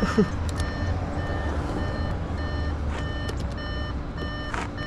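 Flatbed tow truck's backup alarm beeping repeatedly over the steady low running of the truck's engine, with a few scattered clicks and knocks.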